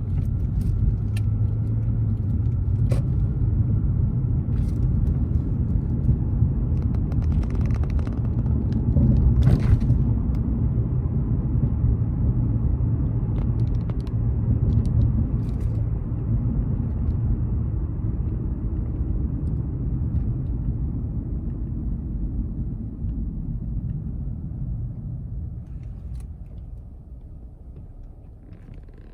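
Toyota Crown Athlete driving, heard from inside the cabin: a steady low rumble of road and engine noise with a few light knocks. It dies down near the end as the car slows.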